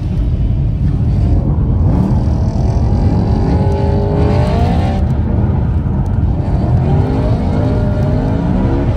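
BMW E9x M3's V8 engine heard from inside the cabin while driving on an icy snow road, its revs climbing twice, over a steady low rumble from the spiked ice tyres and drivetrain.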